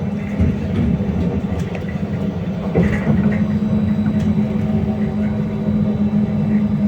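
BKM-321 trolleybus in motion: a steady low electric hum from the drive, with scattered light rattles and clicks from the body.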